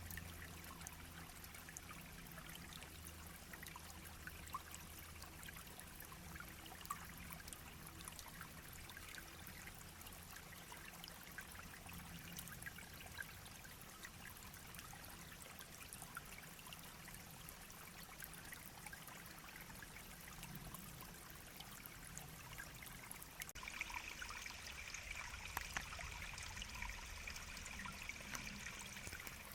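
Small shallow stream trickling and burbling steadily over stones, faint and even. For the last six seconds a brighter, higher hiss joins it.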